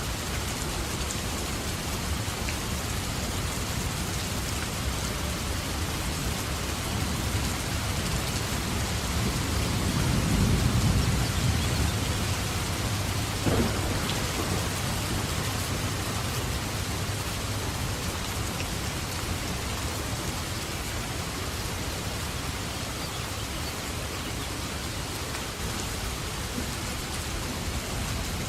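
Steady rain falling, with a low rumble of thunder swelling and fading about a third of the way in, and a brief sharp crack near the middle.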